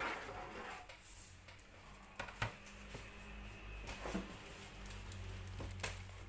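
Plastic toy pieces and packaging being handled: a few sharp clicks and light rustling over a low steady hum.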